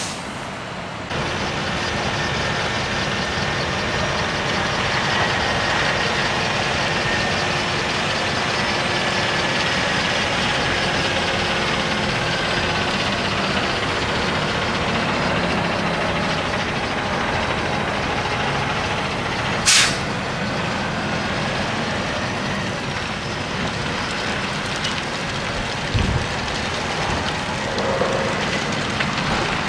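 Heavy truck engine running steadily amid truck-stop traffic, with a short, sharp hiss of air released from the air brakes about two-thirds of the way through.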